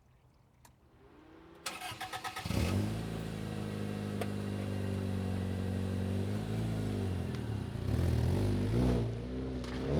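Toyota 2JZ inline-six in a 1997 Corolla, running through a new exhaust. The starter cranks it briefly, it catches about two and a half seconds in and settles into a steady idle, then it is blipped a few times near the end.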